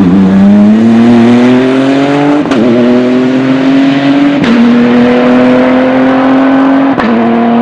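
Race car engine accelerating hard through the gears: the pitch climbs steadily in each gear and drops at three quick upshifts, each with a short crack.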